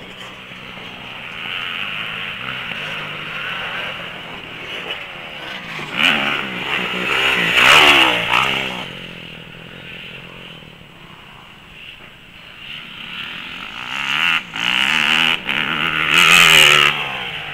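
Motocross bikes riding a dirt track, engines revving up and falling off in pitch as they ride and jump. They are loudest as a bike comes close about eight seconds in and again near the end.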